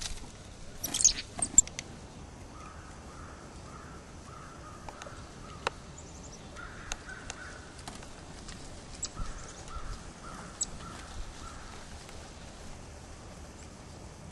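Birds calling in runs of short repeated notes, with scattered sharp clicks and knocks; the loudest knocks come twice, about a second in.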